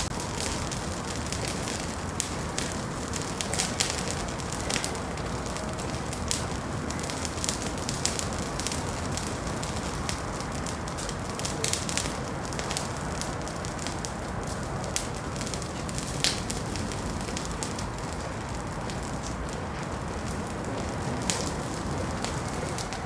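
Wood fire crackling in a fireplace: a steady hiss of flame with frequent sharp, irregular pops and snaps.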